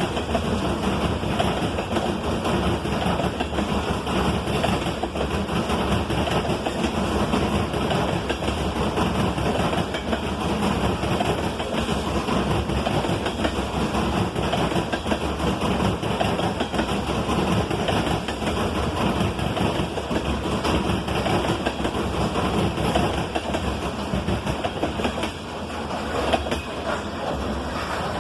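Loaded coal hopper cars of a freight train rolling past, with a steady heavy rumble and a fast clatter of steel wheels over the rails.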